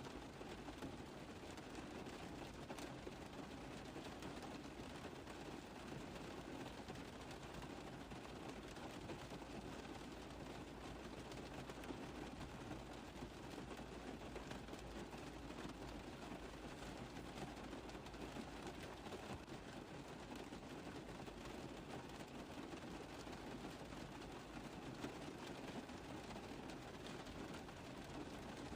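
Steady rain tapping on a car roof: a dense, even patter of many small drops.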